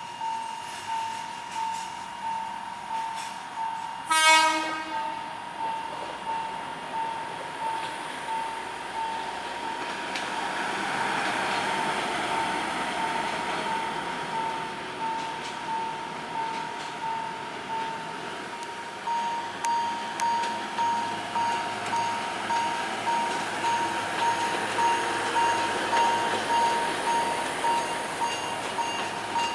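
Railway level crossing bell ringing about twice a second. A train horn gives one short blast about four seconds in, and the train then rumbles past, loudest in the middle of the stretch.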